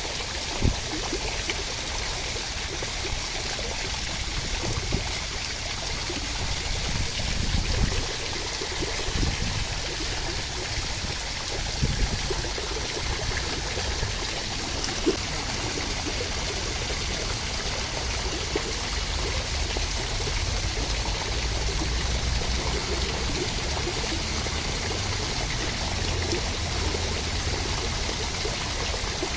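Steady rain: an even hiss of falling water, broken by a few brief louder spatters.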